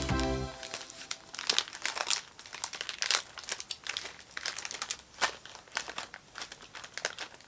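Background music ends about half a second in. Then packaging crinkles in irregular, sharp crackles as it is handled.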